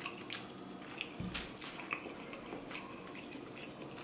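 Person chewing a mouthful of poi (mashed taro) with faint wet mouth clicks and smacks, and a soft low bump about a second in.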